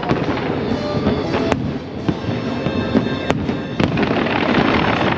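Aerial fireworks shells bursting over a continuous crackle and rumble, with three sharp bangs standing out: one about a second and a half in, then two close together past the three-second mark.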